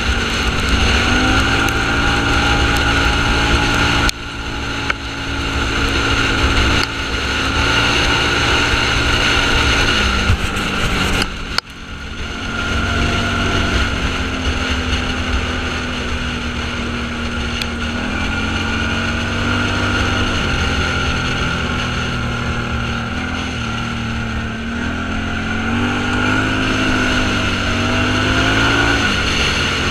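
An off-road vehicle's engine running under way, its pitch rising and falling gently with the throttle, over steady road and wind noise. The sound drops sharply and briefly about 4, 7 and 11 seconds in.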